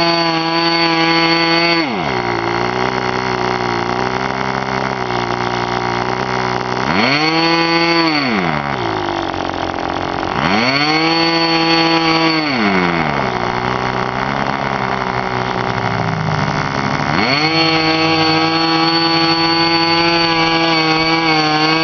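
K&B Fuji .05 two-stroke glow engine with a muffler running: it drops from high speed to a low idle about two seconds in, is revved up and back down twice, then brought back up to high speed near the end.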